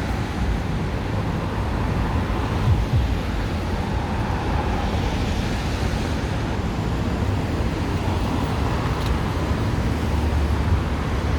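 Steady road traffic noise, with most of its weight in a low hum.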